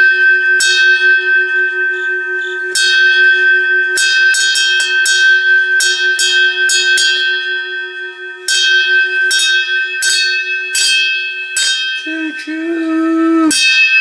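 A train-style bell ringing with repeated strikes, each tone ringing on into the next, with a short break about eight seconds in. Near the end a brief pitched tone bends up and down.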